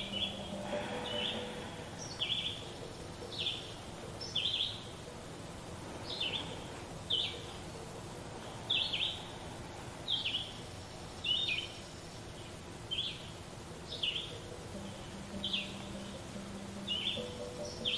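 A bird chirping over and over, short high notes, often in pairs, about once a second, over a faint steady low hum.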